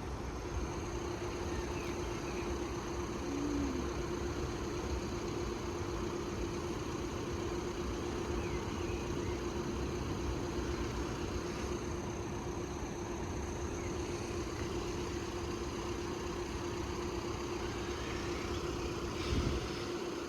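Steady low rumble of road vehicles idling at the closed level crossing, with a constant mid-pitched hum over it.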